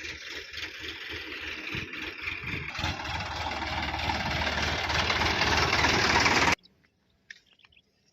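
Diesel tractor engine running with a rapid rhythmic knock, growing steadily louder for about six seconds, then cutting off suddenly.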